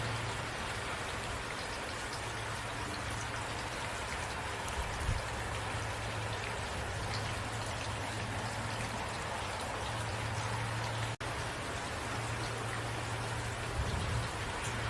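Steady rainfall with scattered drips, over a low steady hum. The sound cuts out for a split second about eleven seconds in.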